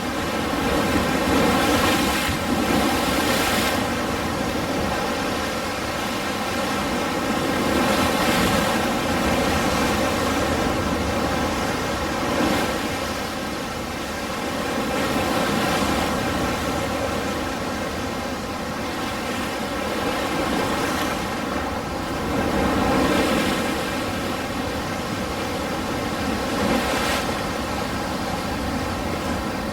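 Ocean surf: waves breaking and washing ashore in a continuous rushing wash that swells and eases every few seconds.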